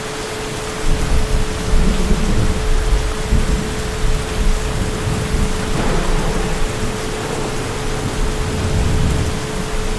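Heavy rain falling steadily, with distant thunder rumbling low. The thunder rolls in about a second in and swells again near the end.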